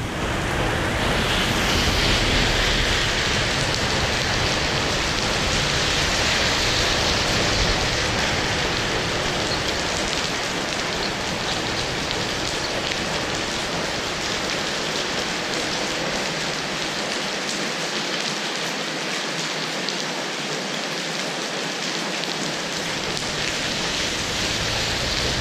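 Heavy rain falling, a steady dense hiss. A low rumble runs under it for roughly the first ten seconds, dies away, and comes back near the end.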